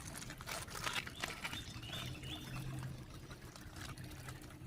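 Shallow creek water trickling over rocks, with small splashes and knocks scattered through it.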